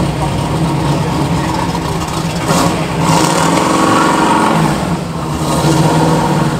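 Car engine running with a low, steady exhaust note, its pitch rising briefly about two and a half seconds in.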